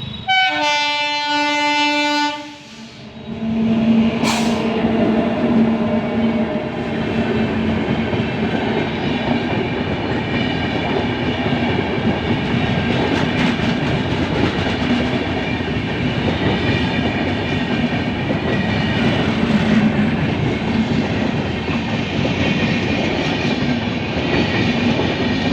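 A locomotive horn sounds once for about two seconds. Then a train's coaches roll steadily past at speed, with wheel noise and clickety-clack over the rail joints and a sharp clank about four seconds in.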